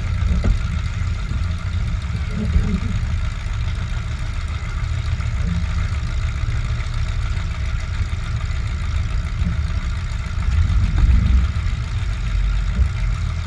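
Demolition derby truck's engine idling, a steady low rumble that briefly rises a little about eleven seconds in.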